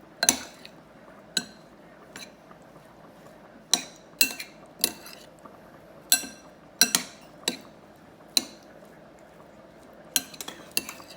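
A utensil clinking against a bowl as pasta salad is stirred and mixed, in irregular sharp knocks with a short ring, a cluster of quicker taps near the end.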